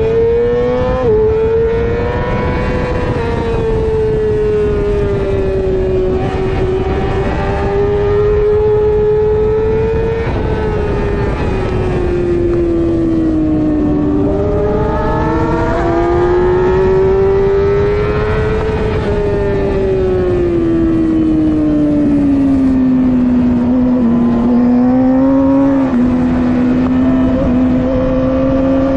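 Middleweight superbike engine running hard. Its pitch climbs and falls smoothly with the throttle, with a sudden step down about a second in from a gear change. A steady rush of wind or road noise sits under the engine.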